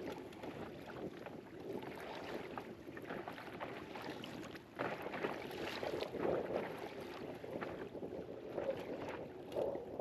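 Water lapping and splashing irregularly against the side of a small inflatable boat, with wind.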